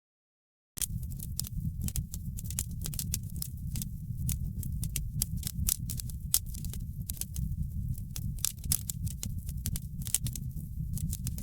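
Wood fire burning in a fireplace, crackling with many sharp, irregular pops over a steady low rumble. The sound is cut out completely for about the first second, then returns.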